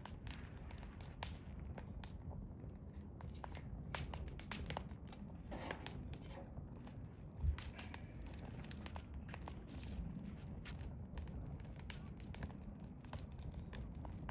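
Hardwood fire crackling, with irregular sharp pops and ticks over a steady low rumble, and one louder thump about seven seconds in.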